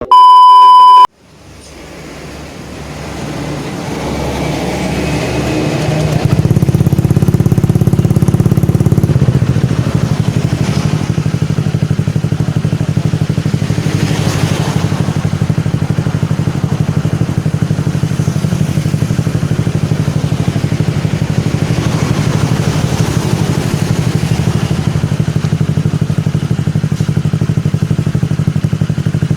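A one-second electronic beep at a single high pitch. Then a Honda Vario scooter's single-cylinder engine fades in through an initialD Sandblast aftermarket racing exhaust and runs steadily, with a deep, even pulsing note.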